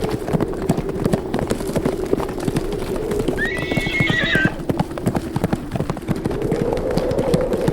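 Horses' hooves beating fast and irregularly, over wind blowing with a low tone that rises and falls. A horse whinnies briefly about three and a half seconds in.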